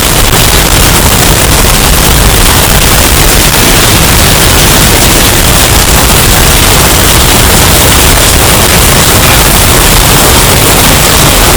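Hurricane wind sound effect, bass boosted until it clips: a steady, very loud wall of distorted noise.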